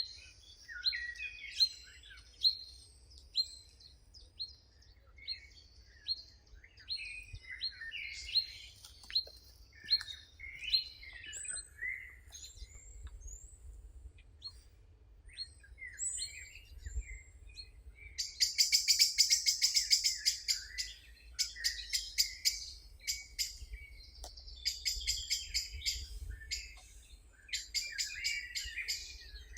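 Several wild birds singing, with overlapping chirps and short whistled phrases. About two-thirds of the way through, one bird starts a fast, dry trill of rapidly repeated notes lasting a few seconds, and it repeats in shorter bursts near the end.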